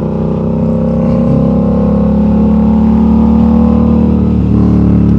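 Yamaha R7's parallel-twin engine running under way as the bike is ridden, its note and loudness building slowly as it gains speed.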